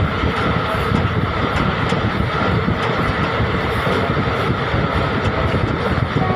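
Indian Railways passenger train running, a steady rumble of wheels on the track.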